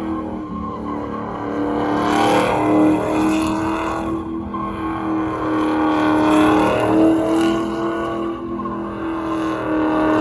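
A vehicle engine running loudly at high revs, its pitch held fairly steady with slight rises and falls.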